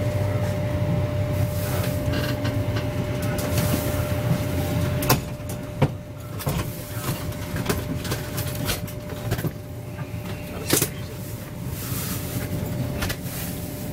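Inside a Mark 3 coach of an HST running on the rails as the train slows along a station platform: a low running rumble that eases after about five seconds, a steady hum, and a few sharp knocks.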